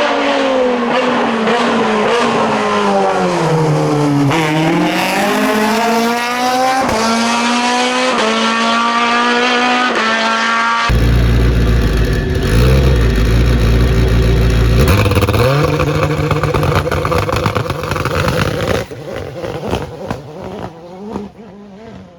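Racing car engines at a hillclimb. The first engine's revs drop until about four seconds in, then climb again through several quick upshifts. About halfway through, a deeper, heavier engine sound takes over and fades away near the end.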